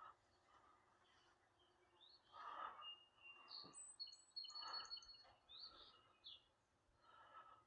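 Faint birdsong: scattered short chirps and a brief trill about halfway through, over otherwise near silence.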